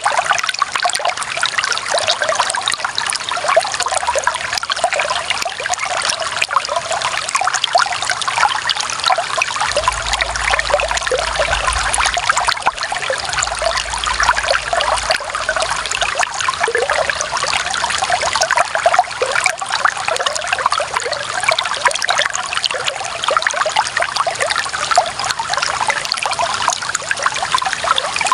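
Clear running water trickling and splashing steadily, a continuous bubbling flow.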